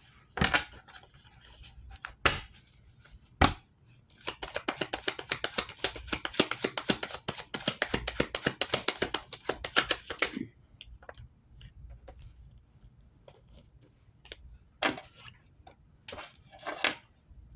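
A deck of cards being shuffled by hand: a few single slaps, then a fast run of crisp card clicks for about six seconds, and two brief rustles near the end.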